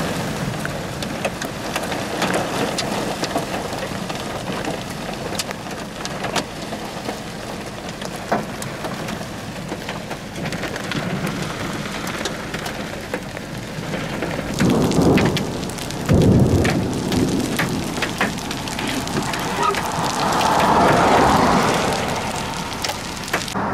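Heavy thunderstorm rain pouring down, with many sharp drops striking close to the microphone. The downpour swells louder about fifteen seconds in and again near twenty seconds.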